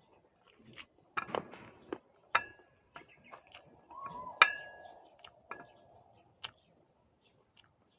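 Crisp raw green guava being bitten and chewed: irregular sharp crunching clicks, with a couple of short ringing clinks on a dish, the louder one about halfway through.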